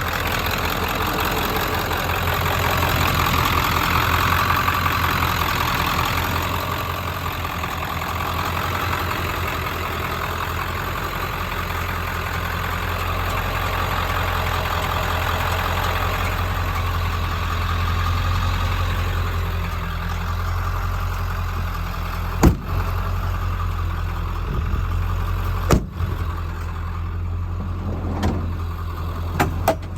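Ford F-350's 7.3-litre turbo diesel V8 idling steadily. A few sharp knocks come in the last several seconds.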